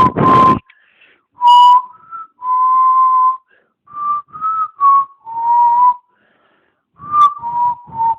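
A person whistling a slow tune: single held and short notes at a fairly even pitch, in phrases separated by brief pauses, with breath audible around the notes.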